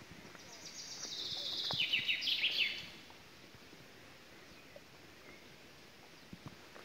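A songbird sings one phrase lasting about two and a half seconds. It is a quick run of notes that falls in pitch into a trill and ends in a short flourish, over steady outdoor background noise.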